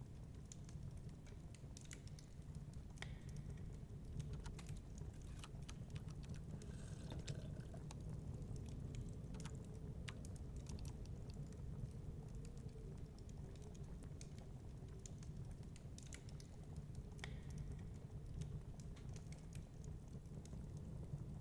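Wood fire crackling in a fireplace: irregular small pops and snaps over a low, steady rumble.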